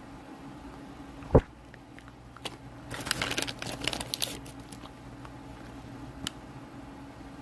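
Close-miked eating: a single loud low thump about a second and a half in, then a burst of crunching about three to four seconds in as crunchy food is bitten and chewed, with a few small clicks after.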